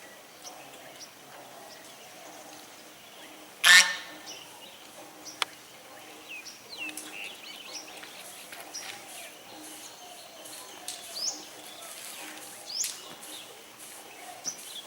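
Waterfowl calling: one loud, harsh honk about four seconds in, with many short, high chirps and peeps scattered throughout over a steady outdoor background. There is also a single sharp click soon after the honk.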